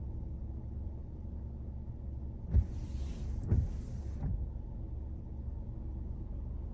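Steady low rumble of the car driving, heard from inside. About two and a half seconds in, the windshield wipers make one wet cycle: two hissing sweeps across the glass, each about a second long, with a thump as it starts, at the turn, and at the end.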